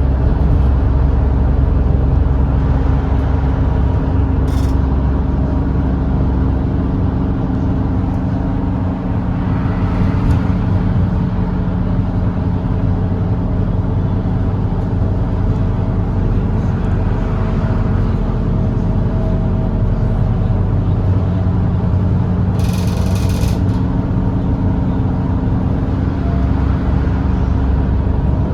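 Volvo B8RLE double-decker bus's diesel engine running steadily at expressway cruising speed: a low, even drone mixed with road noise. About 23 seconds in, a brief high-pitched sound cuts through.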